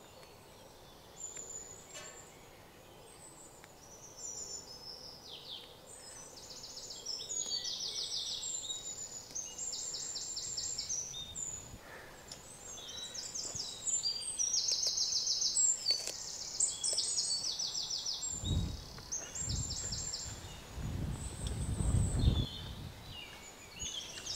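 Songbirds calling: many short, rapid high trills and chirps, coming thicker after the first few seconds, over a faint steady outdoor hiss. A few low rumbles sound about three-quarters of the way through.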